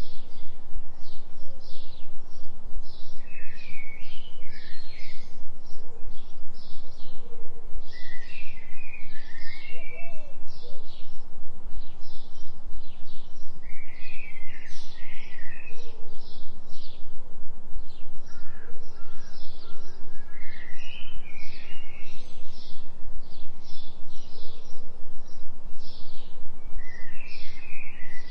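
Woodland birdsong: many quick high chirps and repeated warbling phrases from several birds, over a steady low binaural tone whose loudness pulses quickly and evenly.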